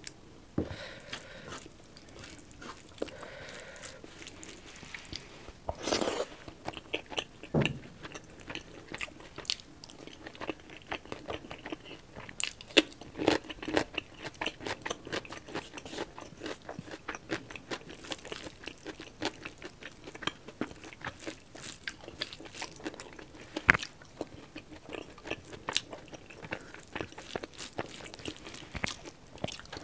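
Close-miked chewing of a mouthful of rice and pork curry: crunching and wet mouth clicks, many quick clicks throughout, with a louder burst about six seconds in.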